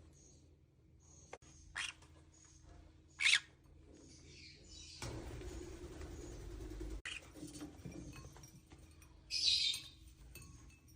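Indian ringneck parakeet giving short, sharp, high calls, three of them, the loudest about three seconds in. A rushing noise runs for about two seconds in the middle.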